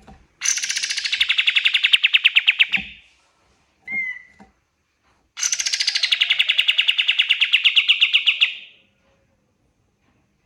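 A kapas tembak (white-shouldered triller) singing: two long, rapid, even trills of about three seconds each, with a short chirp between them.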